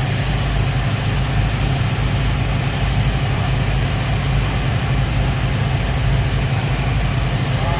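Speedboat engines running with a loud, steady, low drone that does not change in pitch or level.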